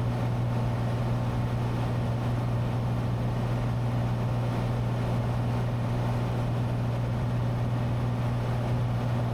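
Steady drone of a Cessna 182T's six-cylinder Lycoming IO-540 engine and propeller heard from inside the cabin in flight, a constant low hum with no change in pitch.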